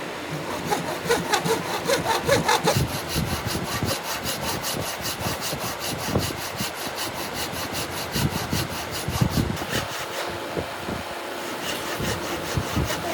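Hand saw cutting into wood in fast, even back-and-forth strokes, which stop about ten seconds in.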